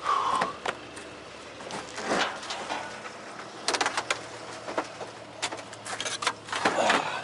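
Rummaging through junk in a dumpster: irregular clatter, knocks and rustling as objects are shifted and handled, busiest in the second half.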